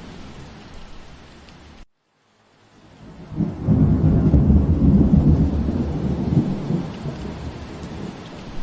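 Steady rain hiss. About two seconds in, the sound cuts out completely for about half a second. Then a low rumble of thunder swells up, rolls on for several seconds and slowly eases back under the rain.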